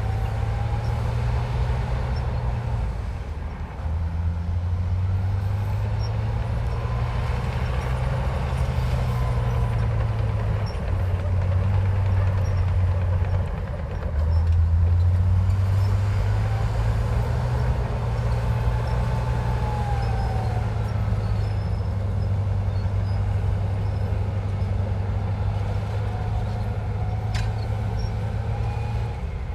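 Heavy diesel engine of a Komatsu bulldozer working, its low drone shifting in pitch and strength every few seconds as it takes and drops load, with a faint whine rising and falling above it. The engine dips briefly a few seconds in and again about halfway, then comes back louder.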